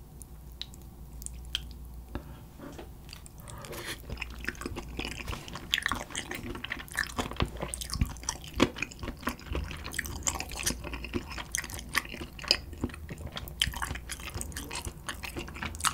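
Close-miked chewing of spicy chicken feet: wet, sticky mouth sounds with many small clicks and crunches, getting busier about four seconds in.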